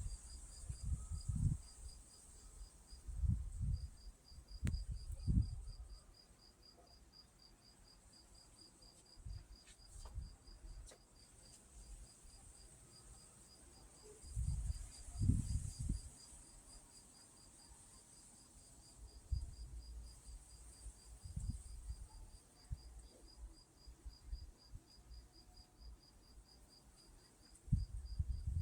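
Cricket chirping in a steady, even train of high-pitched pulses, over a steady high insect hiss. Low rumbles come and go several times, loudest near the start and around the middle.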